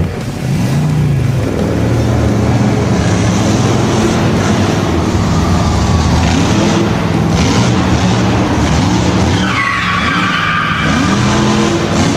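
Vehicle engine revving again and again, rising in pitch, with a tyre squeal lasting about a second near the end.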